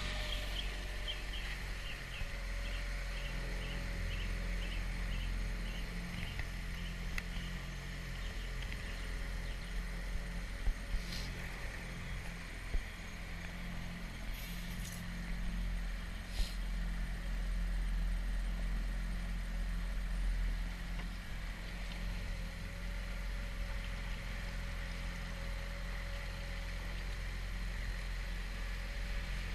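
Mercury 9.9 hp outboard motor running steadily at low throttle, a low even rumble. A few faint clicks are heard along with it.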